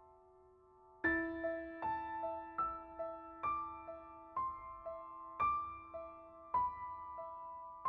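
Slow, soft piano music. A chord fades out, then about a second in a new chord is struck and a gentle melody of single notes follows, roughly one or two a second, over a sustained low note.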